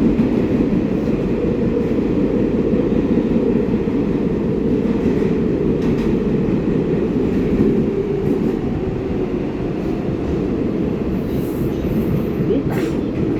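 R188 subway train running at speed: a steady rumble of wheels on rail, with a sharp click near the end.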